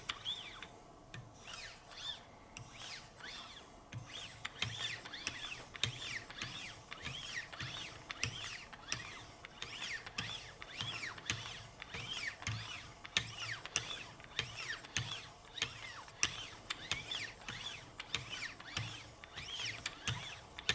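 Wicked Edge guided sharpener's 6-micron lapping-film paddles stroking along a Benchmade Altitude's S90V blade edge: a long run of short rubbing strokes, sparse at first and then steady from about four seconds in. This is the fine polishing stage toward a mirror edge.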